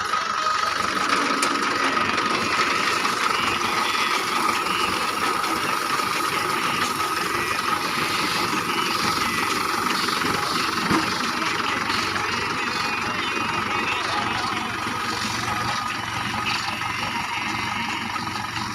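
Mahindra tractor engine running steadily, with a steady high whine over the engine noise.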